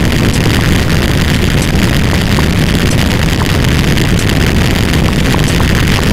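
A loud, steady wall of noise with a heavy rumble underneath, like many sound effects playing at once, with a few faint clicks scattered through it.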